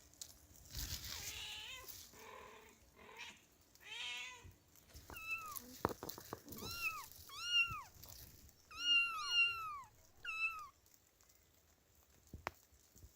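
Kittens meowing: a string of about seven high, arching meows in the second half, after a few lower, rougher cries at the start.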